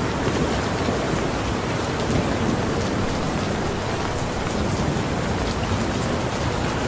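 Steady rain falling on a surface: an even hiss with scattered individual drop taps.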